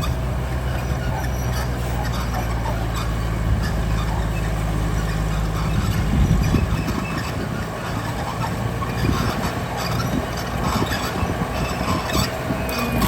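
Diesel engine of a heavy earthmoving machine running with a steady drone, which about halfway through gives way to a rougher, uneven rumble with scattered knocks.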